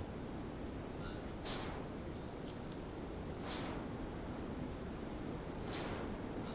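Three-wattled bellbird giving its flute-like whistle call: three short, loud, clear whistled notes about two seconds apart, over a steady recording hiss.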